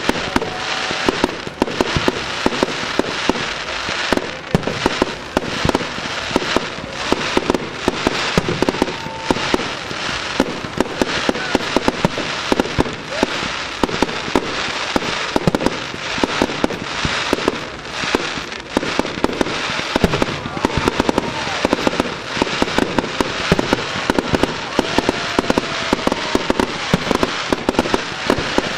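Fireworks display: aerial shells bursting in a dense, unbroken run of bangs and crackles, many a second.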